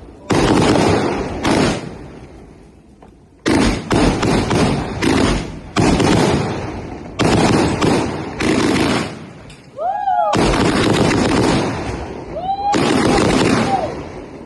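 Battery fireworks (a multi-shot cake) firing shot after shot: a string of loud booms, each with a rumbling tail that dies away. There are about a dozen shots, some in quick pairs, with a lull of a second or two early on.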